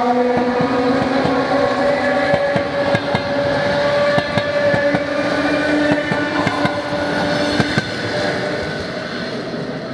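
ED4M electric multiple unit running past on the rails, with rapid irregular clicks of the wheels over the rail joints under a steady whine; the sound fades off over the last couple of seconds.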